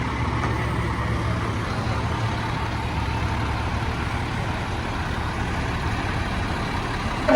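Heavy truck engine running steadily, with a low hum and road noise.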